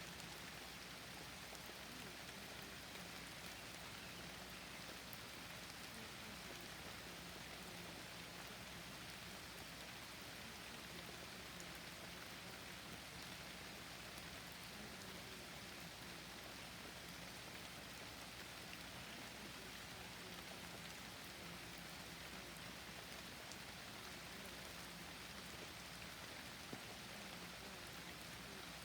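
Steady rain falling, a soft even hiss of drops with no break.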